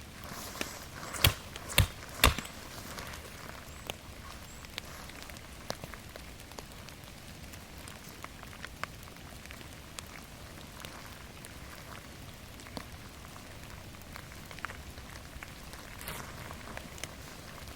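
Steady rain falling in a forest, with scattered drops ticking. About a second in, three sharp knocks come roughly half a second apart.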